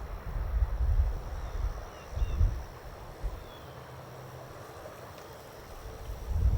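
Wind buffeting the microphone in uneven gusts, with a few faint high chirps about two to four seconds in.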